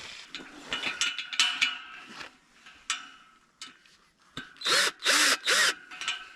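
Cordless drill-driver run in three short bursts about two-thirds of the way in, the motor's pitch rising and falling with each trigger pull. Before that, scattered clicks and rubbing from handling the parts.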